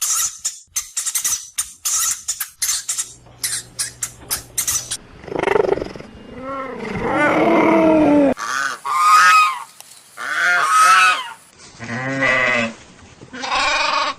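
A rapid run of sharp clicks for about five seconds, then a series of loud, wavering animal calls, six or so, each up to two seconds long.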